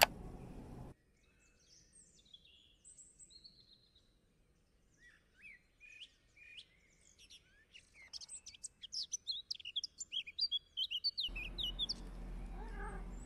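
A sharp click at the very start, then songbirds chirping: a few scattered whistled calls at first, growing into a dense run of quick chirps from about eight seconds in. The birdsong cuts off suddenly near the end and gives way to a low steady room hum.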